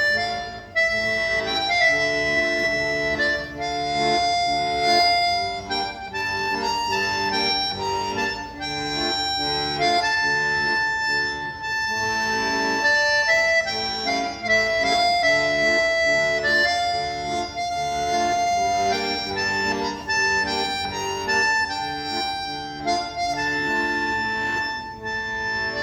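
Music on a free-reed instrument, accordion-like: a melody of long held notes over sustained chords.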